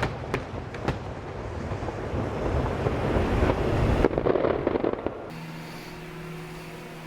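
Fireworks going off: a few sharp pops, then a swelling run of rumbling bursts and crackle. This cuts off suddenly about five seconds in, giving way to a steady low hum.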